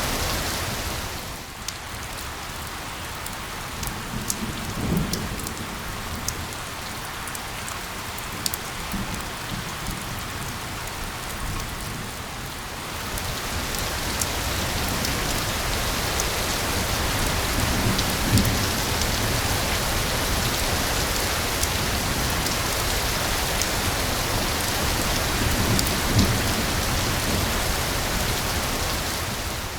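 Steady rain falling on a surface, with sharp ticks of single drops among the hiss. It is lighter for the first dozen seconds, then heavier, and now and then a low rumble swells under it.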